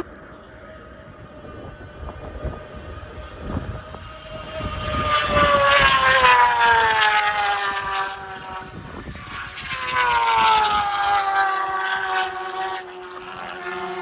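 Two superbike racing motorcycles pass at speed, one after the other about four seconds apart. Each engine note swells as the bike approaches, then drops in pitch as it goes by.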